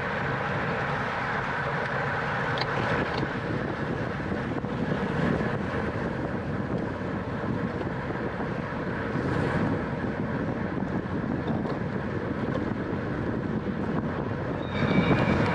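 Steady rushing of wind over the microphone of a camera riding along in a road bicycle race, with rolling road noise beneath it. The noise grows louder near the end.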